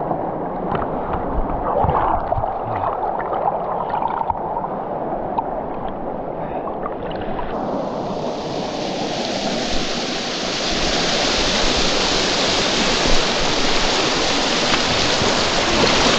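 Rushing river water with light splashing. About halfway through, the rush becomes suddenly brighter and a little louder and holds steady.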